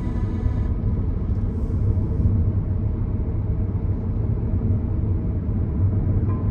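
Steady low rumble of a car driving along the road, tyre and engine noise with no change in pace.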